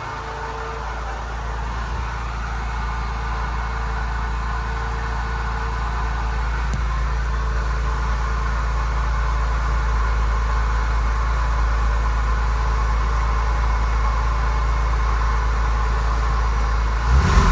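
2000 Porsche 996 Carrera's water-cooled 3.4-litre flat-six idling steadily after a cold start.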